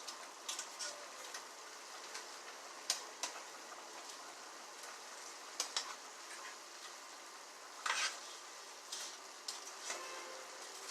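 Food sizzling as it fries in a pan: a steady hiss with scattered sharp crackles and clicks.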